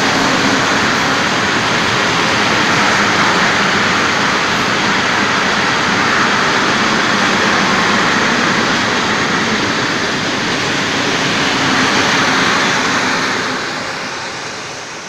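Freight train rolling over a railway viaduct close by: a steady, loud noise of wheels on rails that fades near the end as the last wagon passes.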